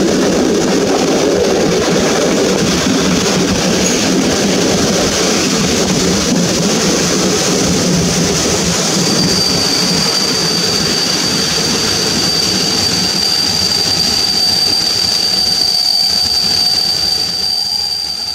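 Passenger train coaches running slowly on the rails, heard from an open window, with a dense rumble of the wheels as the train slows. About halfway through a steady high-pitched squeal sets in and holds; the sound fades out near the end.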